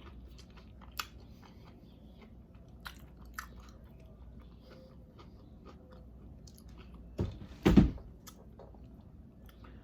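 Close-miked mouth sounds of a person chewing and biting food, a plate of shrimp and vegetables, with scattered wet clicks and smacks. A louder thump comes about three-quarters of the way through.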